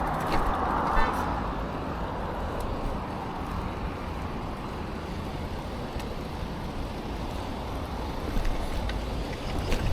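Steady rumble of wind and tyre noise while riding a bicycle, with road traffic; a passing vehicle's sound fades away over the first few seconds. A few light clicks and a brief ticking are heard.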